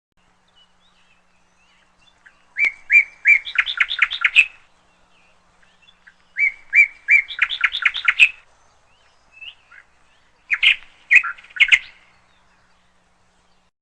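Canary chirping in three bursts of about two seconds each, every burst starting with a few separate chirps and running into a quick string of notes.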